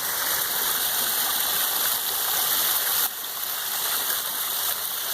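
Backyard pond waterfall, water spilling from the biofalls into the pond in a steady rush that drops a little in level about three seconds in.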